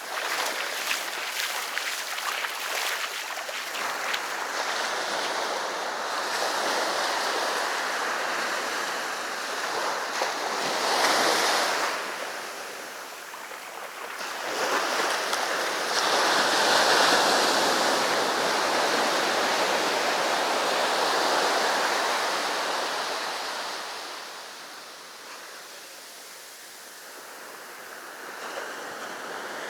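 Sea surf breaking and washing up the shore in long surges that swell and ebb, loudest about midway and dropping away near the end.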